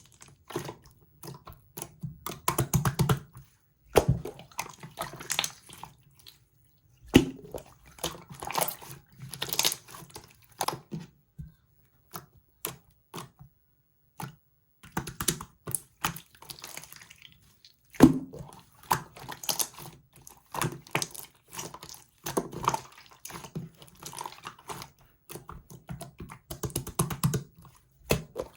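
Clear orange slime being squeezed and poked by hand, giving a steady run of sticky, wet clicks and crackles in short clusters.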